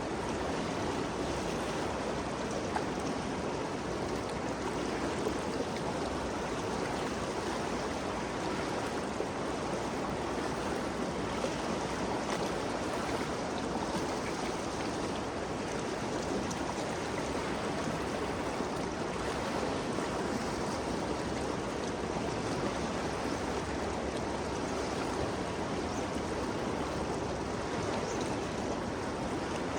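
Ganges River flowing, a steady rushing of moving water with no breaks or changes.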